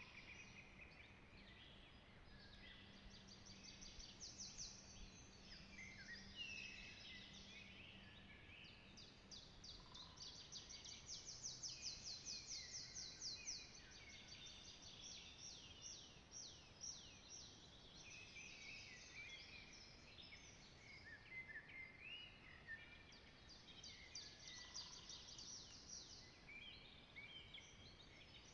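Faint chorus of several songbirds singing in a spring forest, overlapping chirps and warbled phrases with a fast run of repeated trilled notes about halfway through.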